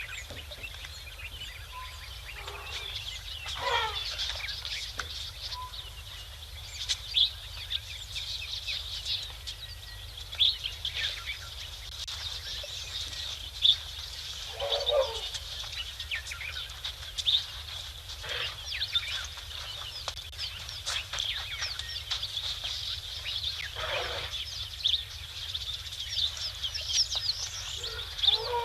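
A chorus of birds calling, with a dense run of short high chirps and about four louder calls that each sweep downward in pitch, over a steady low hum.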